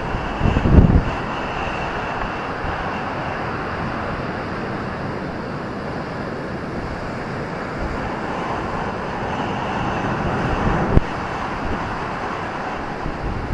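Ocean surf at night: a steady rush of waves breaking on the beach, with wind buffeting the microphone about a second in and a short thump near the end.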